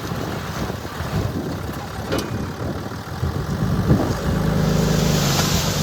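Diesel engines of heavy earthmoving machines (dump trucks and a bulldozer) running with an uneven rumble; a little over four seconds in, one settles into a steady, higher drone with a hiss over it.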